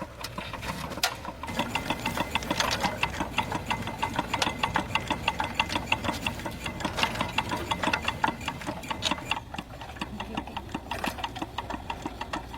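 Engine running with a rapid, even clatter, a little quieter over the last few seconds.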